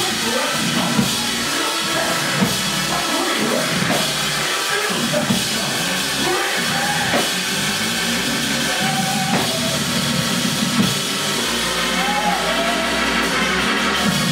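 Live gospel band music driven by a drum kit, loud and continuous, with regular sharp drum hits.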